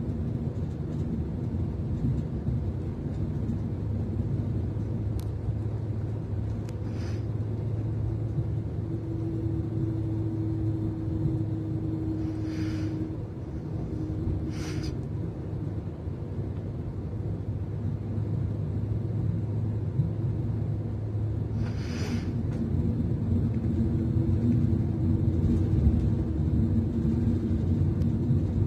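Class 390 Pendolino electric train running, heard from inside the passenger coach: a steady low rumble, with a faint steady whine that comes in about a third of the way in and again near the end, and four short hissing noises.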